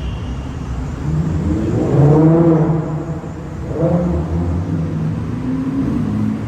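Car engine revving over a steady low rumble, rising in pitch then falling back several times, loudest about two seconds in.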